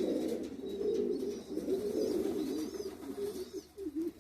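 Domestic pigeons cooing: a low, wavering coo that carries on without a break and fades near the end.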